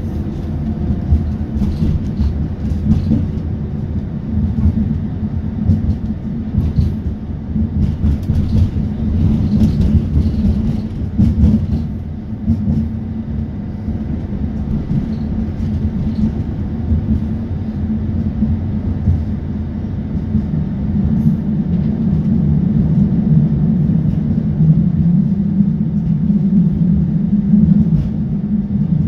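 ABB UBp electric train running on the line: a steady low rumble, with scattered clicks and knocks through the first dozen seconds, growing slightly louder near the end.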